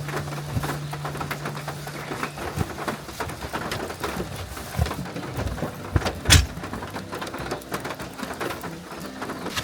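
Heavy rain falling on a camping tarp: an even hiss with many scattered drips and taps. A dull knock about six seconds in is the loudest sound.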